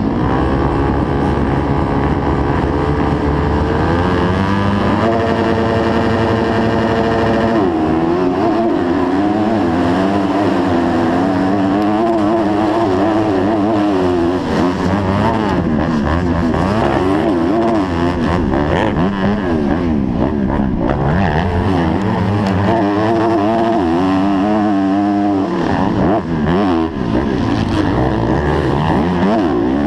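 250-class motocross bike engine, loud and close: steady at first, its revs rise and hold high for a few seconds, then from about eight seconds in they climb and drop rapidly, over and over, as the bike is ridden hard.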